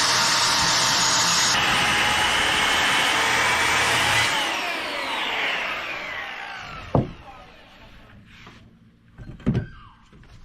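Table saw running through a rip cut in white oak, then switched off, its whine falling steadily as the blade spins down. A few sharp knocks follow near the end.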